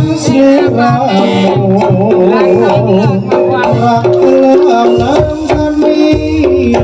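Jaranan accompaniment music: a melodic instrument carrying the tune over rattling percussion and drums, with the low drumming growing heavier about five seconds in.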